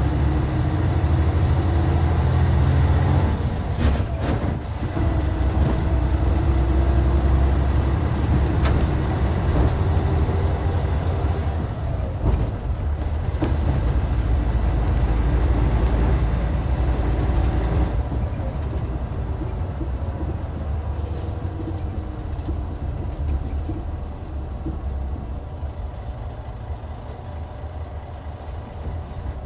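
Hyundai Universe coach's D6CC six-cylinder diesel engine running under way, its pitch rising and falling with engine speed, with a few short knocks. About two-thirds through, the engine gets quieter and stays so.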